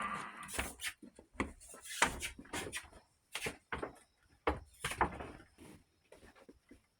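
A run of irregular knocks and clatters on wood, loudest about two seconds in and again near five seconds.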